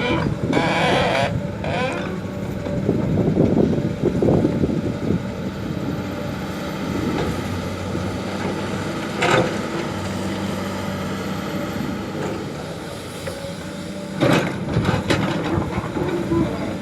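Excavator's diesel engine running steadily as it works, with a sharp knock about nine seconds in and a few more knocks near the end.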